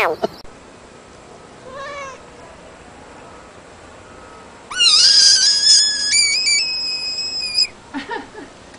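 A frog's distress scream: one loud, high-pitched scream of about three seconds, starting about halfway through and stepping up in pitch as it goes. Another frog's falling scream cuts off right at the start.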